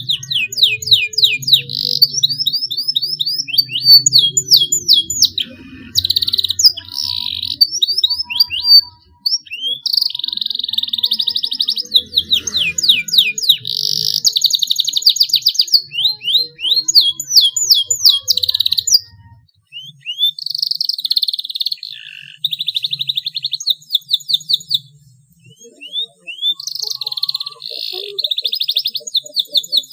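Young domestic canary singing while still learning its song: phrases of fast repeated sweeping notes and long rolled trills, broken by short pauses.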